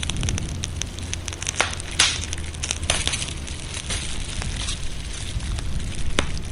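Wood fire crackling, with irregular sharp pops, the loudest about two seconds in, over a steady hiss of rain and a low rumble.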